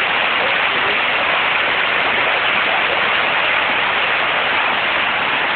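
Storm runoff in a heavy downpour: muddy floodwater rushing down a street like a waterfall, a steady, even rush of water.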